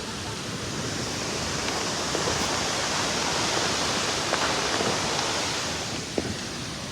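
Tumpak Sewu waterfall in flash flood: a dense, steady rush of falling floodwater that swells louder in the middle, with one small click near the end.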